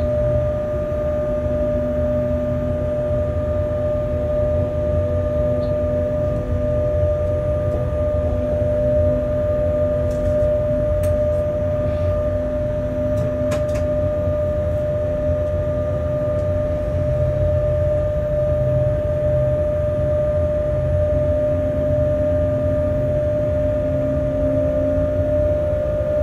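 Running noise of a freight train heard from the locomotive cab at speed: a steady low rumble of wheels on the track with a constant high whine over it.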